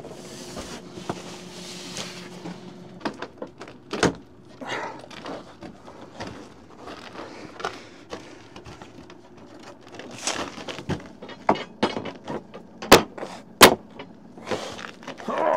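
Irregular handling sounds: scattered knocks and clicks with some rustling, and two sharp knocks close together near the end.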